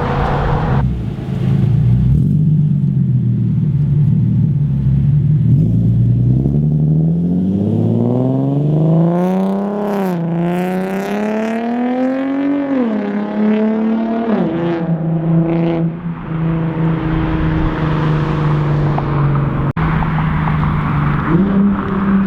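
Nissan 370Z's 3.7-litre V6 through a Z1 Motorsports single-exit race exhaust with test pipes, running steadily, then accelerating through the gears: the note climbs and falls back at three upshifts before settling steady again.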